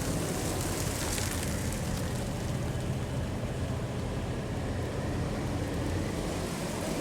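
Steady rumbling run of duct-cleaning equipment, with no strokes or rhythm.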